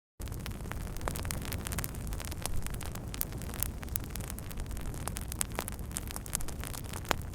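Wood fire crackling: many sharp pops and snaps over a steady low rushing rumble. It cuts in abruptly a moment after a brief silence at the very start.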